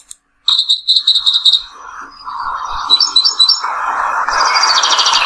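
Birds chirping and calling: quick runs of repeated high chirps, then denser overlapping calls from several birds over a steady background hiss.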